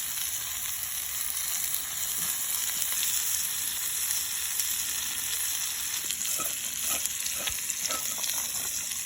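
Steak frying in butter in a pan over a campfire, a steady sizzle with a few small clicks in the second half.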